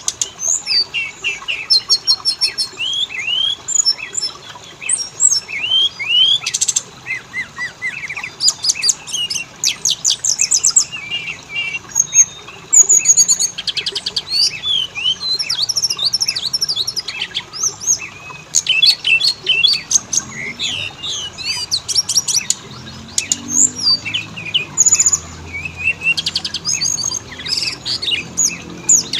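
Oriental magpie-robin (kacer) singing a continuous, varied song of clear whistles, sliding notes and rapid trilled chatter.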